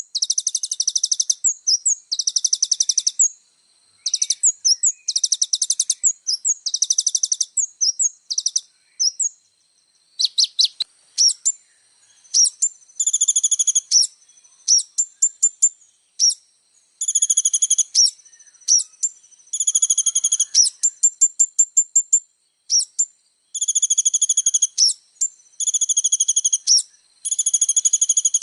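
A kolibri ninja sunbird singing a varied, packed song: very high, rapid trills and chattering chirp series in runs of about a second, broken by short pauses, with fast ticking notes between them.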